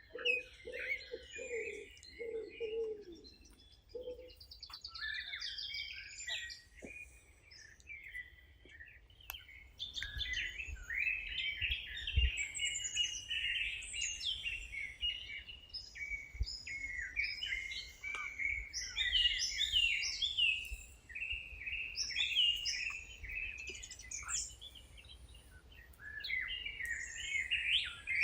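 Several birds singing, with many short high chirps and trills that grow denser about a third of the way in. In the first few seconds a low note repeats several times beneath them.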